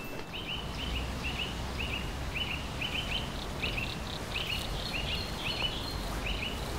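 A small bird chirping over and over in short doubled notes, about two a second, over a low steady background rumble.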